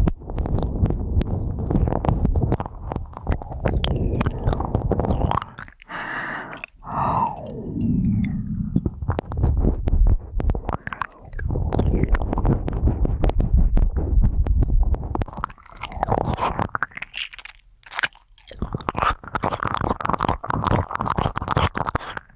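Ear-cleaning ASMR: dense crackly scratching and rubbing close on the microphone, over a low rumble, with a brief falling tone about seven seconds in.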